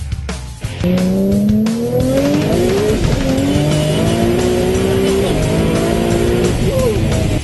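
Twin-turbo V6 of an R35 Nissan GT-R tuned to over 1500 hp, heard from inside the cabin under hard acceleration. Its pitch climbs steadily and drops back at each upshift, about twice.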